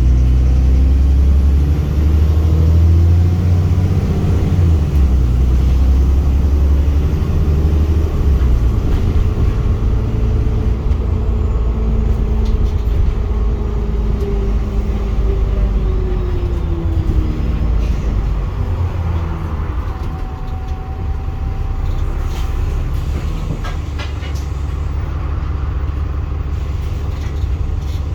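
Diesel engine of a Wright Pulsar single-deck bus running with a loud, heavy low rumble, its pitch rising and falling several times as it works under load. The rough, blaring note is the sign of a blown exhaust.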